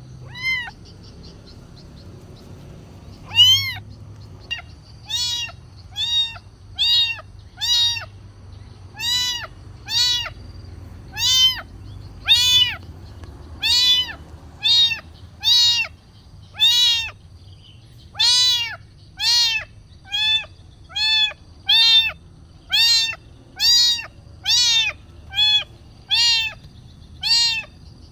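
Kitten meowing over and over, one high meow about every second. Each meow rises and then falls in pitch. This is a hungry kitten begging for food.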